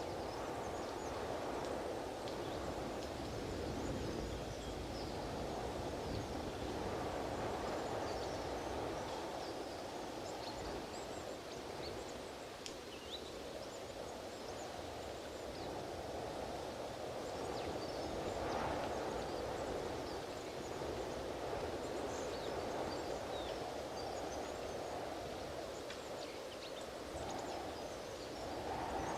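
Strong wind blowing in gusts, a steady rushing that swells and eases every few seconds, with faint scattered high ticks over it.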